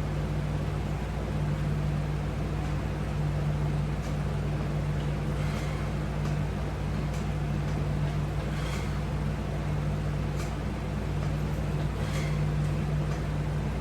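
Steady low hum of room noise, with a faint short sound every second and a half to two seconds from repeated push-ups on resistance straps hung from a wall-mounted bar.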